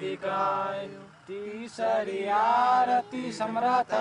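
Male voice chanting in long held, gliding notes over a steady low drone, with brief pauses for breath.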